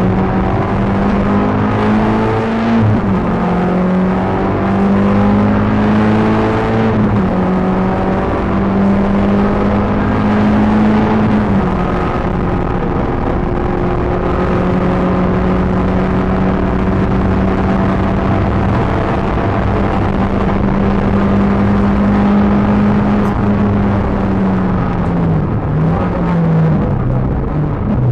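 Peugeot 306 GTi-6's 2.0-litre four-cylinder engine running hard at high revs. The pitch climbs, then drops at upshifts about 3, 7 and 12 seconds in. It then holds steady for a long stretch before falling, with a few quick dips near the end.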